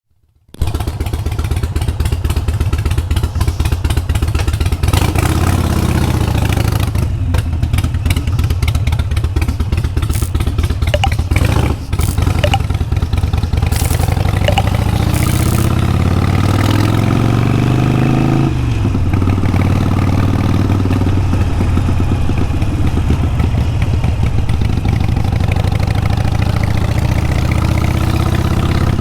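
Harley-Davidson Sportster Iron 883's air-cooled V-twin running loud through a Vance & Hines exhaust. It starts about half a second in, and the engine note climbs twice, briefly around five seconds and then for several seconds up to about eighteen seconds, as the revs build. The note then drops suddenly and settles into a steady run.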